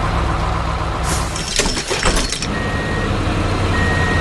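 Heavy truck engine running low and steady, with a brief rattling clatter of strikes in the middle, then a reversing alarm starting: two slow beeps near the end.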